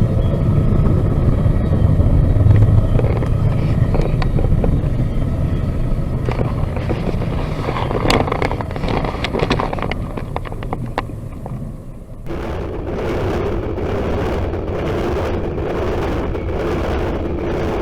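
Freight train cars rolling past with a steady low rumble and scattered wheel clicks. About twelve seconds in the sound changes abruptly to another stretch of rolling noise with repeated sharp clicks.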